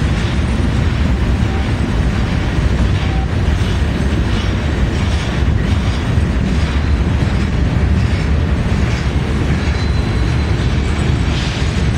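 A steady low rumble from a freight train rolling past, with wind buffeting the microphone.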